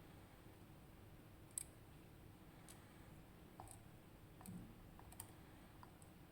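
Faint, scattered clicks of small metal lock parts and tools being handled while a RUKO Garant lock is taken apart, about half a dozen, the sharpest about a second and a half in.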